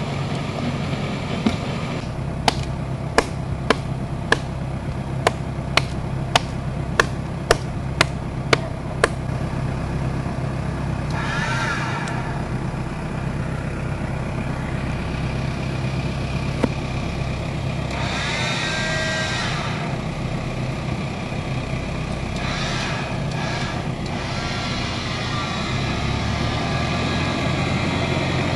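Toyota Land Cruiser diesel engine idling steadily. Early on, about a dozen sharp knocks come roughly every half second.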